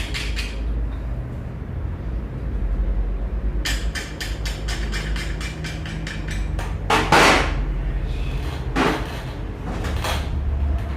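Hand tools working on a scooter engine's cylinder and piston: runs of quick, even metal clicks, then three short scraping bursts, the first about seven seconds in and the loudest. A steady low hum runs underneath.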